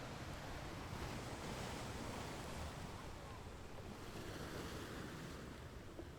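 Ocean waves washing onto a beach with wind blowing, a steady rushing noise that swells about a second in and eases off after a few seconds.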